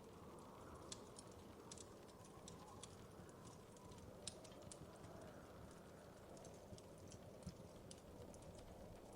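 Faint wood fire crackling: scattered, irregular sharp pops and ticks over a low, steady rumble.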